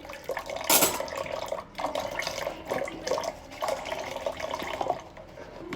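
Kitchen faucet running into a sink during dishwashing, the flow coming and going in spells, with a sharp knock of a dish just under a second in.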